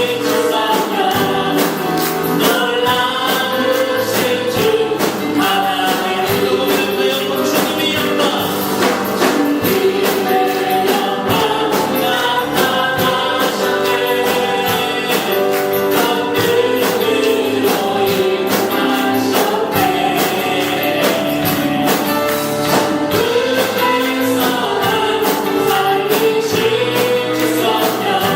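Worship music: a group singing a gospel praise song together over instruments with a steady percussive beat.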